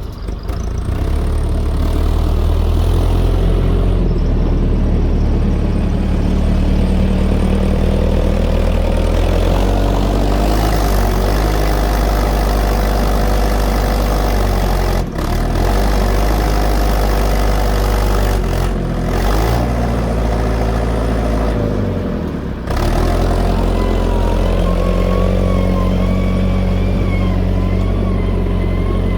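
Fordson E27N tractor's Perkins P6 six-cylinder diesel engine running steadily, its revs rising and falling several times in the middle as it works loading muck.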